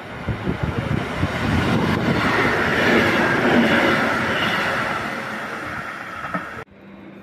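Electric multiple unit train passing close along a station platform: wheels clicking over the rails as it comes in, then the rush of the passing cars growing loudest about three seconds in and fading as it draws away. The sound cuts off abruptly near the end.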